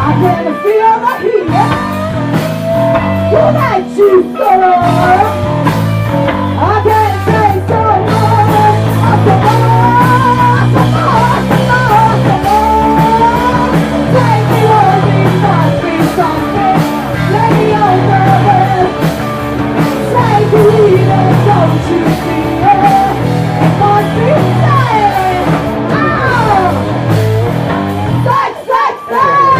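Rock band playing loud live: electric guitar over bass and drums, with a pitched lead line bending up and down in pitch.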